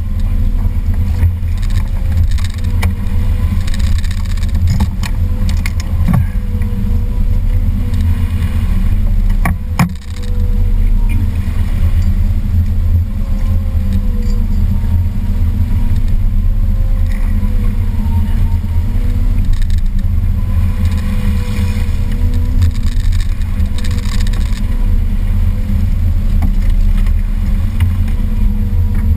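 Boat motor running steadily with a low drone and a faint wavering whine, with a few sharp clicks a few seconds in.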